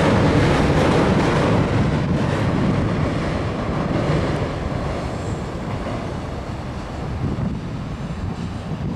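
Sobu Line electric train running across a steel arch railway bridge, a dense rumble that is loudest at first and fades over several seconds as the train clears the bridge.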